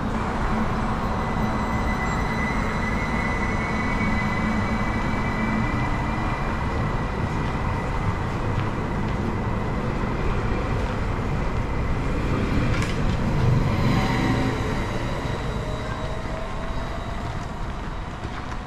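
Electric commuter train, a Stadler FLIRT multiple unit, pulling out from the platform. A steady rumble of wheels on rail runs under a high motor whine that rises slightly in pitch as it gathers speed, with a few sharp clicks about two-thirds of the way through.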